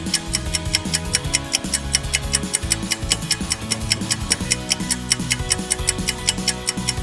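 Background countdown music for quiz thinking time: a fast, even ticking, about five ticks a second, over low sustained synth or bass notes.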